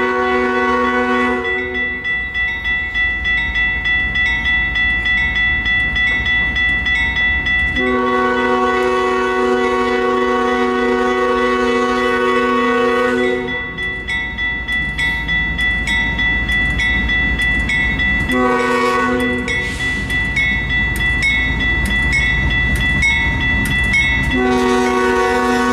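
Union Pacific freight locomotive's multi-chime air horn sounding the grade-crossing pattern of long, long, short, long as the rock train pulls out, over the low rumble of the diesel engines. A high ringing pulses about twice a second underneath.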